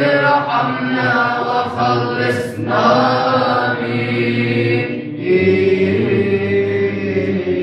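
Orthodox church chant sung in Arabic: long, drawn-out melodic phrases with no clear words over a steady low held drone, broken by two brief pauses for breath.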